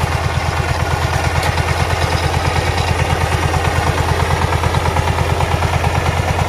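Power tiller's single-cylinder diesel engine running steadily, with an even beat of about eight pulses a second.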